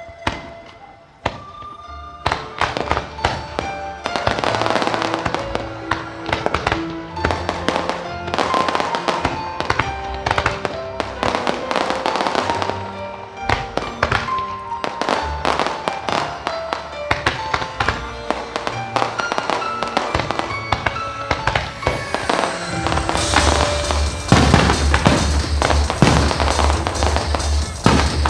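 Aerial fireworks bursting and crackling in rapid succession over a loud music soundtrack. About two-thirds of the way through, a heavy pulsing bass beat comes in under the bursts.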